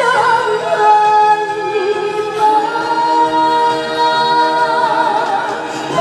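Trot song performed live: a sung melody of long held notes with wavering vibrato over musical accompaniment.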